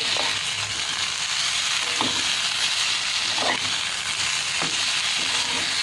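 Marinated chicken pieces frying in hot olive oil in a kadai, a steady sizzling hiss, with a few brief scraping sounds about two, three and a half and four and a half seconds in.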